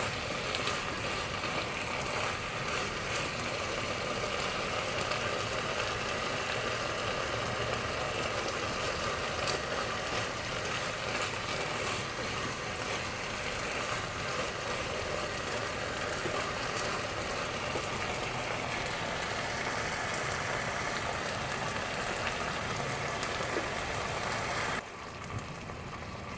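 Minced chicken and sauce sizzling and bubbling in a pan over high heat as the sauce reduces: a steady hiss with small clicks, which cuts off suddenly near the end.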